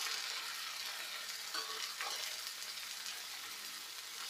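Fried marinated chicken pieces sizzling in hot oil with fried onions, spices and yogurt in a frying pan, a steady hiss that eases slightly, while a wooden spatula stirs, with a few soft knocks against the pan.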